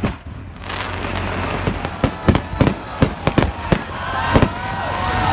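Aerial fireworks going off: an irregular run of sharp bangs over a steady crackle. Wavering high-pitched tones join in about four seconds in.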